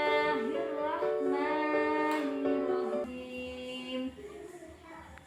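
A voice singing a melodic prayer with long held, gliding notes over music, growing quieter and fading out in the last two seconds.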